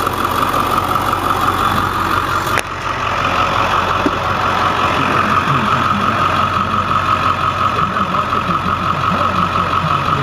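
Ford 7.3-litre Power Stroke V8 turbo diesel in a 2000 F350 Super Duty, idling steadily. There is one sharp click about two and a half seconds in.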